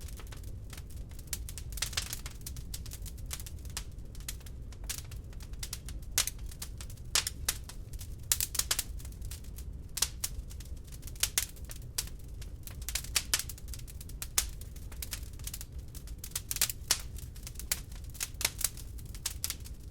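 Wood log fire crackling in a fireplace: irregular sharp pops and snaps, several a second, over a low steady rumble of the burning fire.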